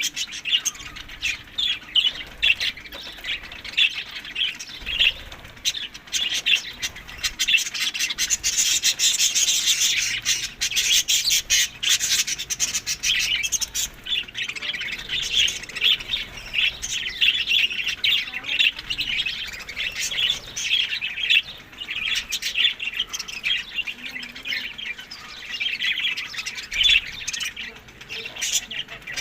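A flock of budgerigars chattering and chirping without pause, busiest about a third of the way in.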